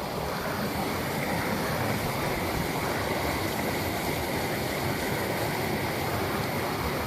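Mountain waterfall: a steady rush of falling water.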